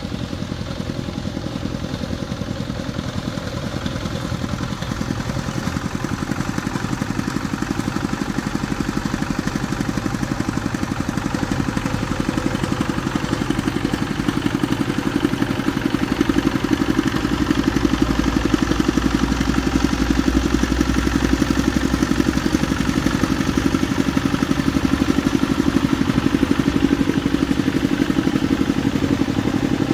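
A motor-driven machine running steadily with a fast, even pulsing, growing a little louder over the stretch.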